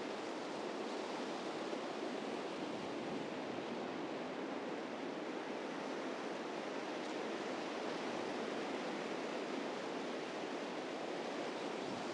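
Strong wind blowing across the course microphones: a steady, even rushing noise.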